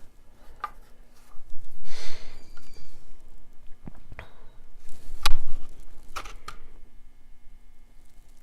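Handling sounds from painting at a table: a rustling scrape about two seconds in, then a few light knocks and taps, the loudest knock about five seconds in.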